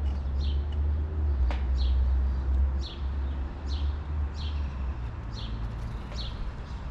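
A songbird repeating a short, high down-slurred whistled note about one and a half times a second, over a steady low rumble.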